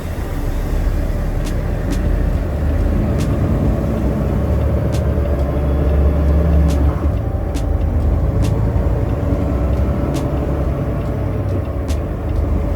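Semi-truck diesel engine running with a heavy, steady low rumble that swells louder around the middle, with faint sharp ticks every second or so.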